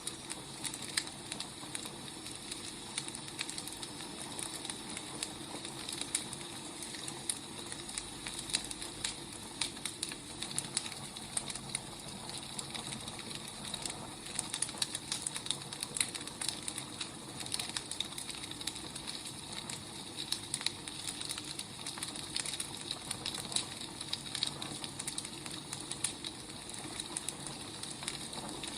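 Firewood burning and crackling: frequent small irregular pops and snaps over a steady soft hiss.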